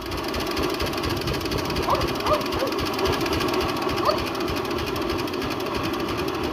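Petter semi-diesel stationary engine running steadily with a rapid, even mechanical beat.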